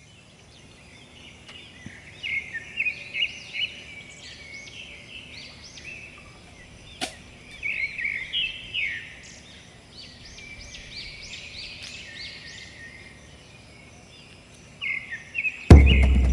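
Birds chirping and calling in quick repeated phrases over a faint outdoor hiss, with one sharp click about seven seconds in. Near the end a sudden loud low boom cuts in.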